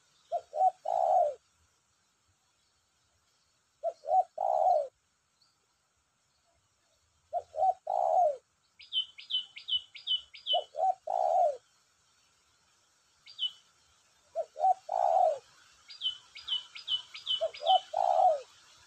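Spotted dove (tekukur) cooing: six phrases about three and a half seconds apart, each two short notes and a longer falling note. The newly caught bird is singing freely. A small bird chirps in quick runs of five or so between the coos.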